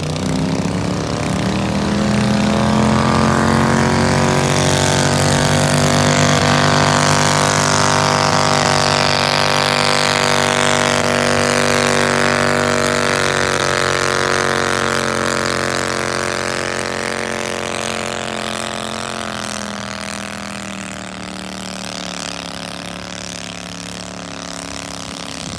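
Garden tractor engine running hard under load as it pulls a weighted sled. The pitch climbs over the first couple of seconds and holds steady, then the engine drops in pitch and fades over the last several seconds as the pull ends.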